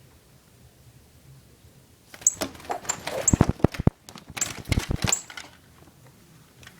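Two bursts of rapid clattering and scuffling, about two seconds in and again about four and a half seconds in, with sharp high ticks and a few heavy knocks: a small bird fluttering about a room while someone tries to grab it.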